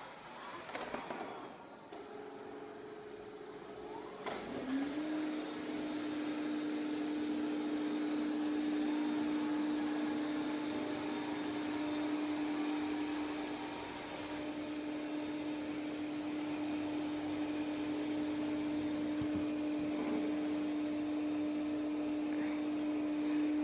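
ECOVACS DEEBOT T50 Pro robot vacuum running. About four seconds in, its motor spins up with a short rising whine, then settles into a steady hum.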